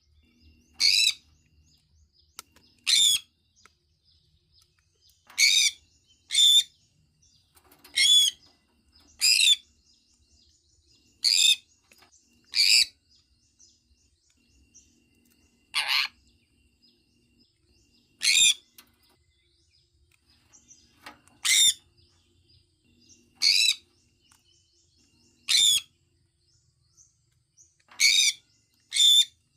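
Sun conure giving short, loud, high-pitched chirping calls over and over, one every one to three seconds, about fifteen in all.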